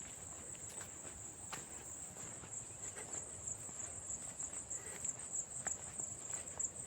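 Insects, such as crickets, trilling steadily at a high pitch, with a few faint ticks that may be footsteps.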